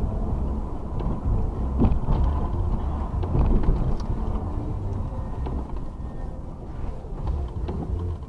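Vehicle on the road: a steady low rumble of engine and road noise, uneven in level, with a few small clicks and knocks.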